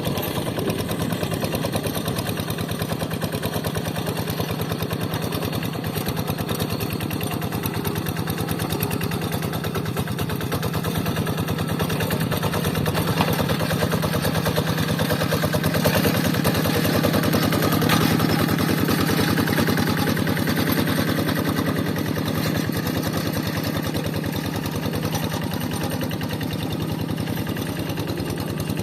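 Single-cylinder Kubota diesel engine of a Quick G3000 Zeva hand tractor running steadily with a rapid, even chugging as it works a rice paddy. It grows somewhat louder partway through, then eases back.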